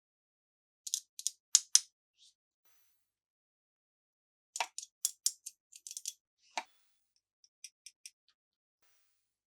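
Sharp plastic clicks and crackles from handling toy packaging and parts: a quick cluster about a second in, a longer, busier run in the middle, then a few light ticks.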